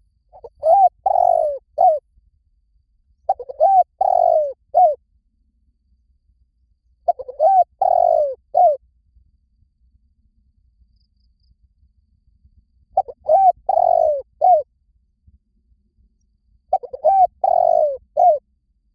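Spotted dove cooing: five phrases of three or four low, hooting notes, each phrase about a second and a half long and a few seconds apart.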